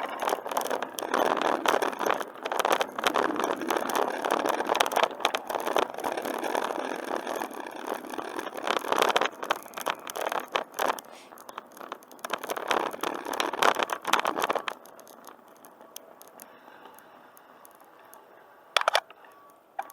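Bicycle riding noise: a continuous rattling and scraping from the moving bike and tyres, full of small clicks, which cuts off suddenly about three quarters of the way through, leaving a faint hiss and one sharp knock near the end.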